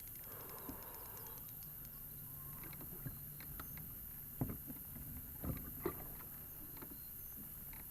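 Faint sounds of a kayak on the water, with a few light knocks on the hull about four and a half to six seconds in.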